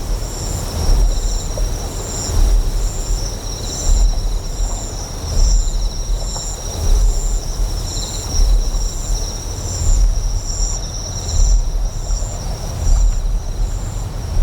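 Deep generator hum that swells and eases in a slow pulse about every second and a half, under a rushing wash like flowing water. Over it, insects chirp: a high chirp repeating a little more than once a second, over a steady high trill.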